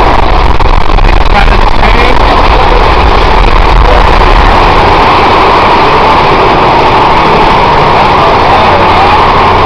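Steady, loud rumble of a roller coaster train running along its track, recorded on board.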